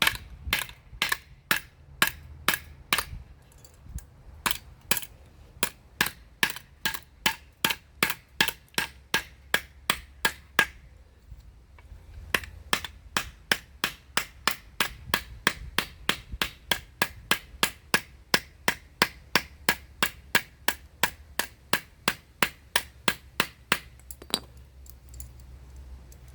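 Steady hand hammering on the workpiece: sharp, even blows about three a second, with a short pause about eleven seconds in and a stop shortly before the end.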